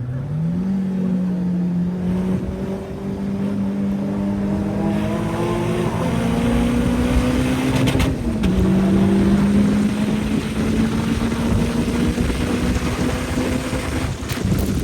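Caterham's 2-litre Ford Duratec four-cylinder engine running hard on track. Its note climbs slowly, drops sharply at a gear change about eight and a half seconds in, then climbs again, with rushing noise building from about five seconds in.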